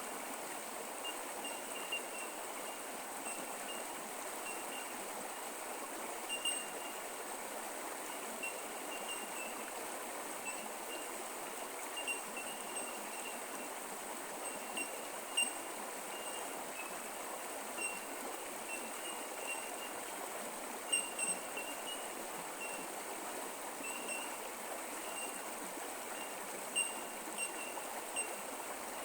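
Creek water flowing steadily over rocks in a continuous trickling rush, with short high chirps scattered through it.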